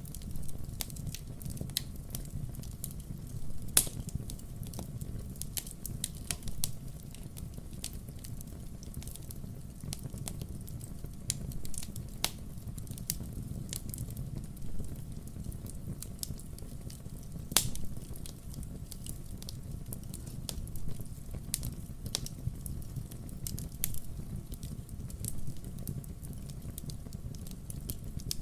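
Burning firewood crackling: irregular sharp pops and snaps, a few louder than the rest, over a steady low rumble.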